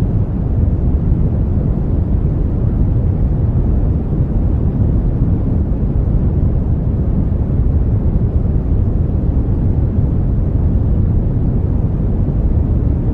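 Synthetic brown noise: a steady, even hiss heaviest in the low end, with no change or events.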